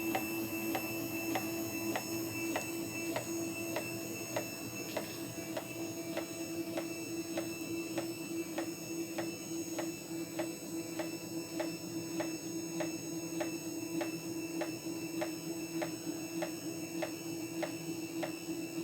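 DIY CNC router's stepper-driven Y axis slowly homing, a steady motor whine with regular sharp clacks a little over two a second. The clack is typical of the Z-axis stepper motor rocking slightly up and down, with the wooden frame behind it acting as a small sounding box.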